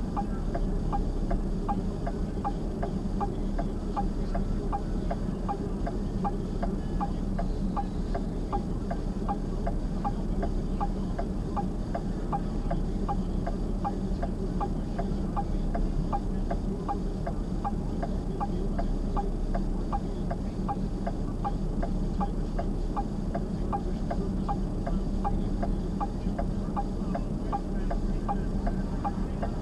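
A car's turn-signal or hazard flasher ticking steadily, about three ticks every two seconds, over the steady hum of the vehicle idling.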